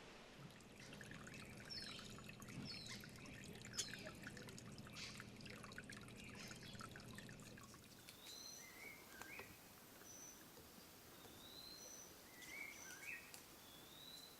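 Faint wild birds calling. First comes a busy chatter of short chirps and clicks; from about halfway a bird repeats a short phrase, a rising whistle followed by a brief high note, about every two seconds.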